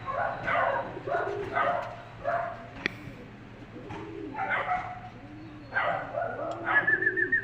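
Racing pigeons cooing, a run of low, repeated rising-and-falling calls.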